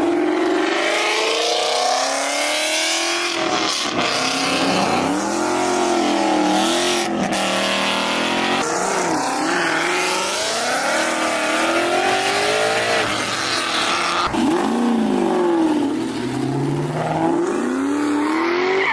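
A car engine revving hard again and again, its pitch climbing and dropping with each rev, loud throughout.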